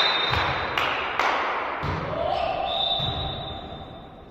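A volleyball bouncing on the sports-hall floor several times, about two bounces a second, in the first second and a half. Later a long, high, steady tone sounds over the hall's background.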